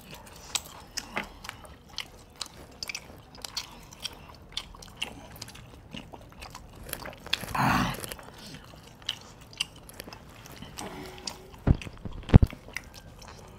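A man chewing a mouthful of tough desi chicken, with many small wet smacks and clicks from the mouth. There is a short murmur from the eater about halfway through, and two sharp thumps near the end.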